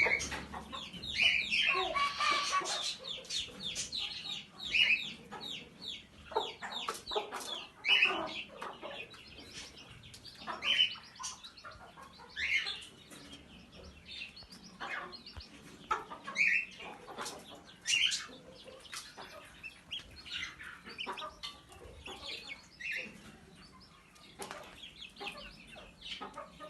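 Birds giving short, sharp calls every second or so, mixed with quick rustling and wing flaps.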